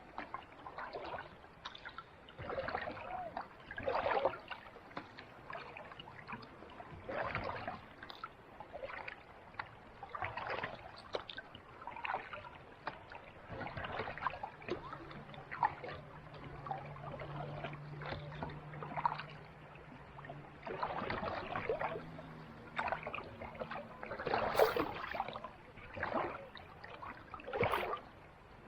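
Kayak paddle strokes dipping and splashing in calm sea water, a splash every second or two. A faint low steady hum runs under the strokes through the middle of the stretch.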